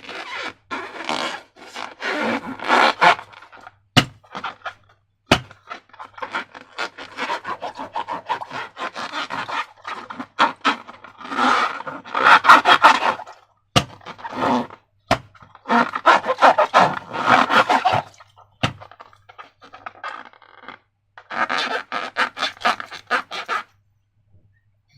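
Slime being squished and mixed by hand: sticky, crackling squelches that come in bursts, with a few sharp clicks between them.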